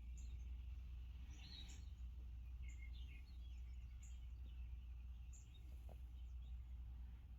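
Faint outdoor ambience: scattered short bird chirps over a steady low hum.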